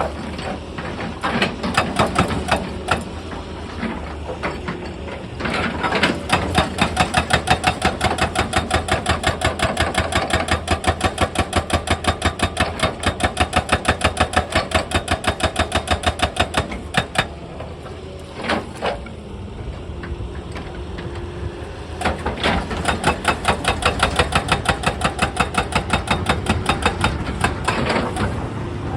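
Excavator-mounted hydraulic breaker hammering rock in rapid, evenly spaced blows over the excavator's running engine. The hammering is loudest in two long spells, with a lull of a few seconds in the middle.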